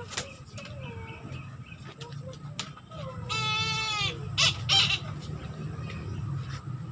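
A captive bird of prey gives one harsh, drawn-out call that falls slightly in pitch about three seconds in, followed by two short, loud, noisy bursts. Scattered clicks and a steady low hum run underneath.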